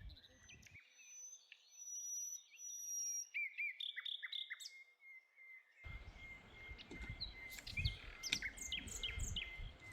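Small birds chirping and singing, with repeated short chirps and some long high whistled notes. About six seconds in, a low rumble joins under the birdsong.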